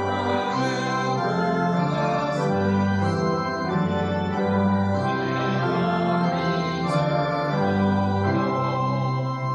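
Church organ playing sustained chords over a bass line that changes note every second or so: the postlude at the close of the service.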